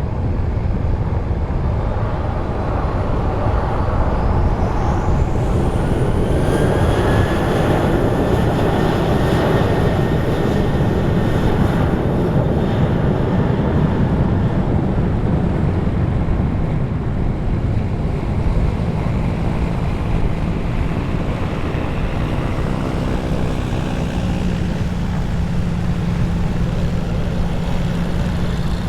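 Jet airliner passing close, its engines swelling to a loud rumble with a rising turbine whine in the first few seconds, over strong wind buffeting the microphone.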